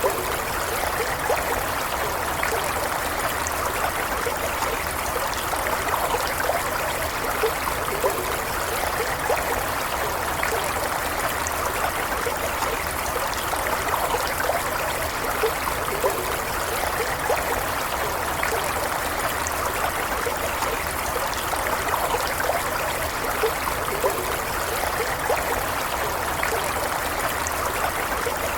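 Stream water running steadily over stones, a continuous burble with small splashes and trickles throughout.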